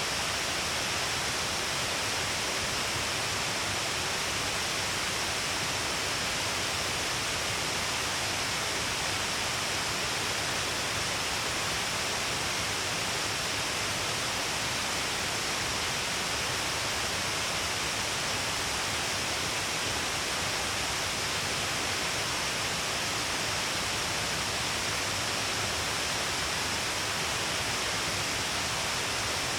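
Shiraito Falls, a broad curtain of water falling all along a cliff face: a steady, unbroken rush of falling water.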